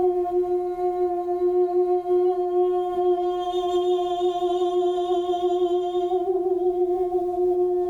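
A singing bowl rings with a steady, sustained tone. Over it a voice hums one long note with a slight waver, fading out about six seconds in.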